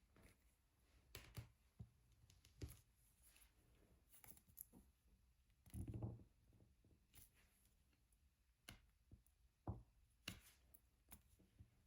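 Faint, irregular taps and clicks of a diamond painting pen pressing resin drills onto an adhesive canvas, with a duller knock about halfway through.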